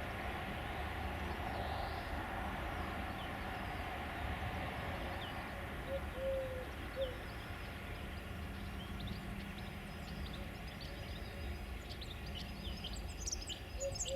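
Freight train running steadily past with a low rumble that slowly eases, with short two-note bird calls and small birds chirping toward the end.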